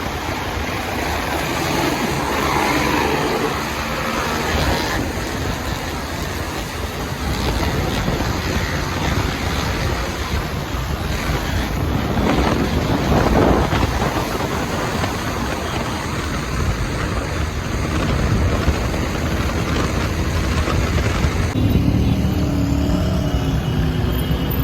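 Wind rushing over the microphone of a motorcycle on the move, with the bike and surrounding traffic running beneath it as a steady, unbroken noise.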